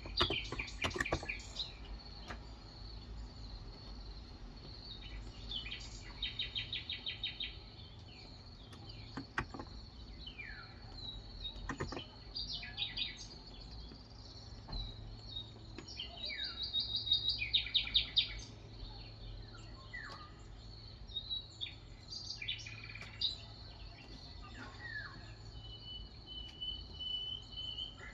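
Birds chirping and singing: bursts of rapid trills twice and short falling whistles throughout, with a steady high note near the end. A few keystrokes on a Cox Endeavor 35g electrostatic capacitive keyboard click in at the start and once or twice later.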